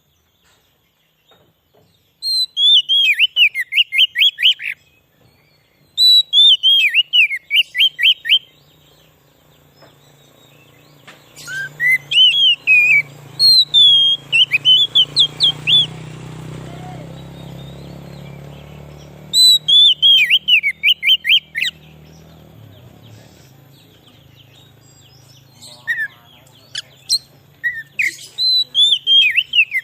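Oriental magpie-robin (kacer) calling in five loud bouts of rapid, sweeping whistled notes, each bout lasting two to three seconds with short pauses between.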